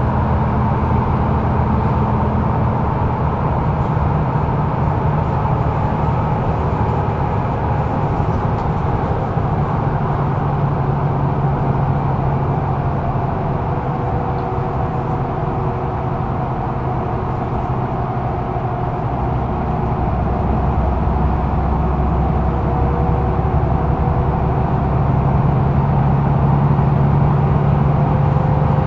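Mercedes-Benz O530 Citaro facelift Überland bus under way, heard from inside the cabin: the diesel engine and ZF gearbox run with a steady low hum that eases off in the middle and builds again in the last third.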